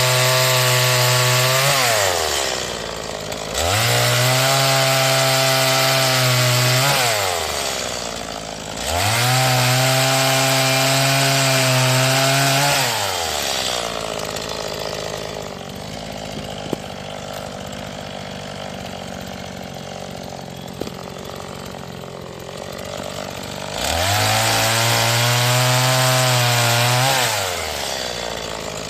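Stihl MS 180 two-stroke chainsaw being run in: the engine repeatedly revs up, holds a steady high speed for three or four seconds, then drops back to idle, four times, with a longer idle of about ten seconds in the middle.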